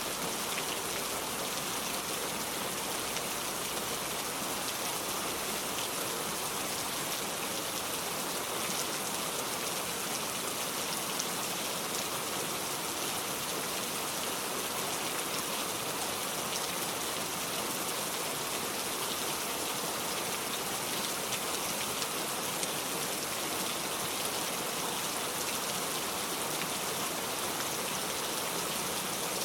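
Steady rain falling on a surface: a continuous hiss of many fine drops, with no thunder.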